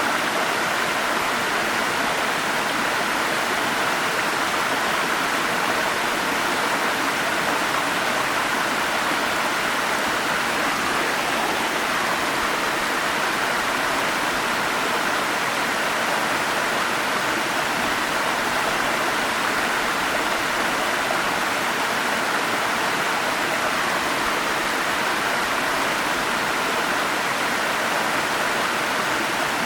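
Forest stream water rushing and splashing over rocks in a steady, unbroken wash.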